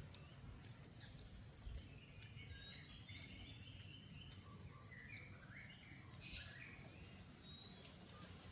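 Faint outdoor ambience: a steady low rumble, with faint high chirping calls through the middle and a few sharp clicks.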